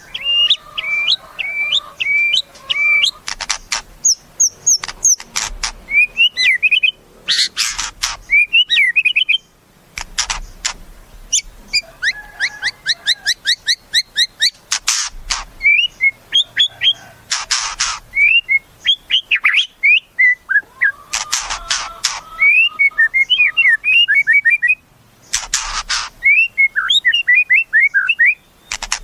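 White-rumped shama (murai batu) singing: quick runs of varied whistled notes and chirps, broken every few seconds by short, dense rattling bursts.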